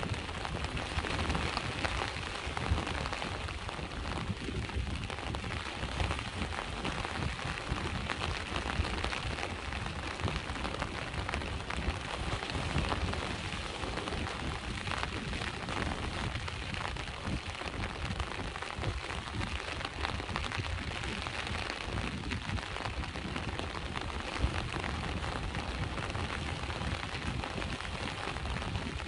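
Steady rain falling, with the wash of sea waves underneath; it keeps an even level throughout.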